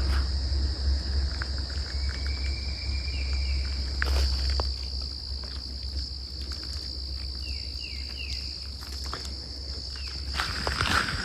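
Crickets trilling steadily in a high, unbroken chorus, with a few short falling chirps twice, and a low rumble underneath.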